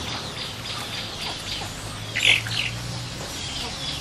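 Birds chirping, with one louder squawking call a little past two seconds in, over the faint sloshing of sliced eru leaves being washed by hand in a basin of water.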